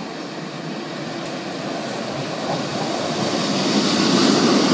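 East Midlands Trains diesel multiple unit approaching along the platform. Its engine and wheel noise grows steadily louder as it draws alongside, loudest near the end.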